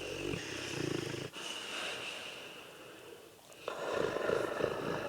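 Dogue de Bordeaux (French mastiff) snoring in its sleep: a rattling snore that breaks off about a second in, a softer hissing breath, then another rattling snore from near four seconds on.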